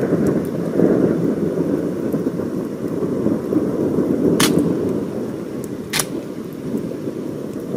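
Thunder from a thunderstorm rumbling on and slowly dying away, with rain, and two sharp taps about four and six seconds in.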